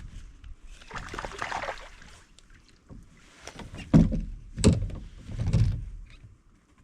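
Knocking and splashing around a kayak: a short rush of splashing, then three hollow thumps against the kayak's hull about four seconds in and over the next two seconds.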